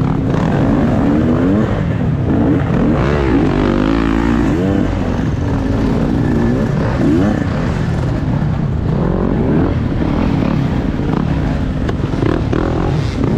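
Dirt bike engine running hard, its pitch rising and falling again and again as the throttle is opened and closed while riding enduro terrain.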